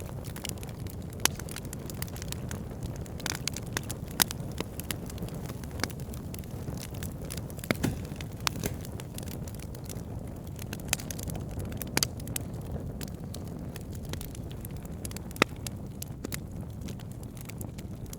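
Wood fire burning steadily with a low rumble, the logs crackling in irregular snaps, with a few louder pops standing out, one about a second in and another near the end.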